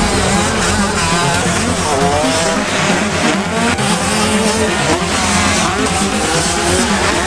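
Several motocross bikes' engines revving, the pitch climbing and dropping as they race, with more than one engine heard at once.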